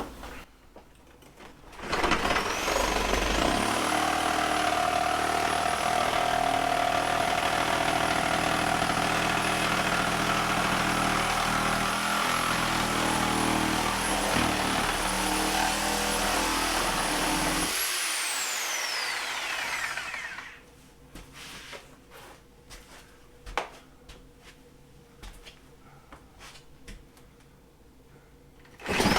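Sawzall reciprocating saw cutting through wooden wall framing, running steadily with a high whine for about sixteen seconds before the motor winds down with a falling whine. A few light knocks follow, and the saw starts up again right at the end.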